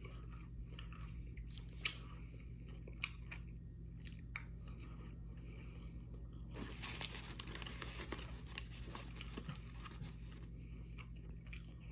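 Close-miked chewing of McDonald's fast food, with a few sharp clicks and a louder noisy stretch about seven seconds in, over a steady low hum.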